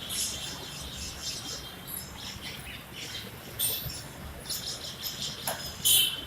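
Many parrots chirping and chattering, with short harsh squawks, the loudest one near the end.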